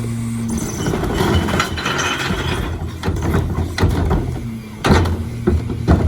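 Rear-load recycling truck running with a steady engine hum while its metal body parts clank and knock several times, over a stretch of hissing about a second in.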